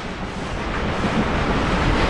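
Steady rushing rumble of a double-headed steam train rolling past close by, growing slowly louder, with no distinct exhaust beats.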